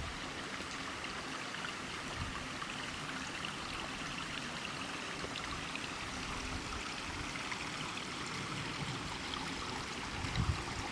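Steady sound of running water, flowing evenly without pause.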